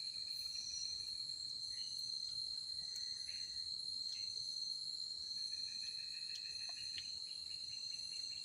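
Forest insect chorus: a steady high-pitched cricket trill, joined twice by a lower pulsing call, once near the start and again from about five to eight seconds in.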